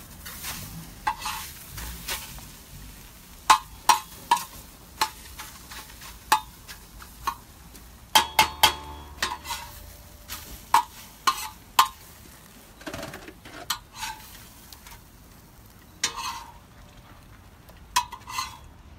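Food frying in a pan on a propane gas cooker, a faint sizzle under irregular sharp clicks and scrapes of a utensil stirring and tapping against the pan, in loose clusters.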